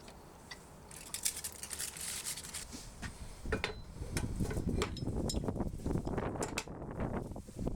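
Metal utensils clinking and scraping against an iron plate. The clicks come in a quickening, irregular run from about a second in.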